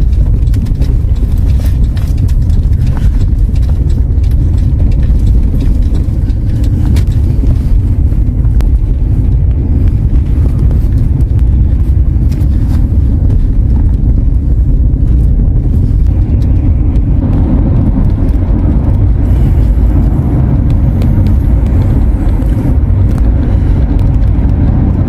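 Steady low road and engine rumble inside a moving car on a highway, a little fuller in its middle range from about seventeen seconds in.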